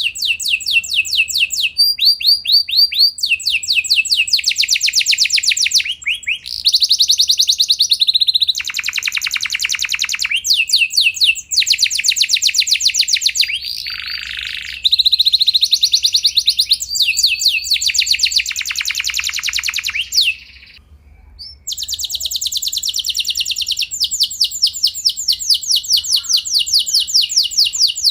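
Domestic canary singing a long rolling song: rapid trills of repeated notes in phrases that shift pitch every second or two, with a short pause about twenty seconds in.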